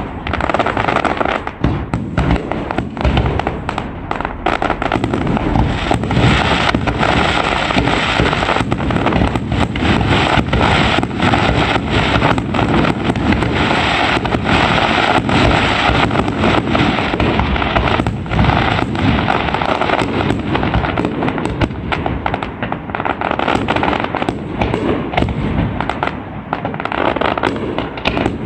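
Aerial fireworks going off continuously: a dense, unbroken barrage of bangs and sharp cracks over steady crackling.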